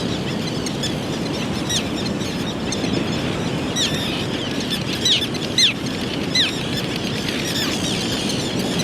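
Small birds chirping: short, high, falling chirps that come thicker about halfway through, over a steady background noise.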